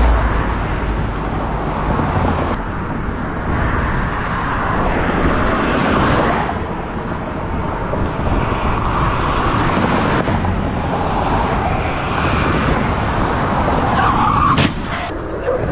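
Loud, steady rushing noise of a moving vehicle, swelling and easing a little, with a sharp click near the end.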